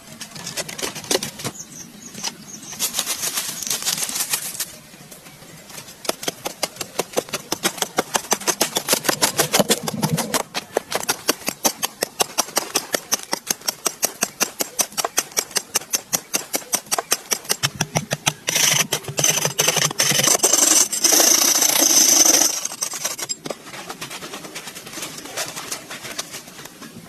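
Rapid, even strokes of a hand tool working bamboo or wood, about four or five a second, with stretches of rasping scraping.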